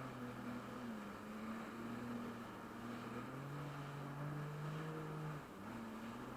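Jet ski engine running steadily, its pitch rising about three seconds in and falling back near the end as the throttle changes, over a steady rush of wind and water.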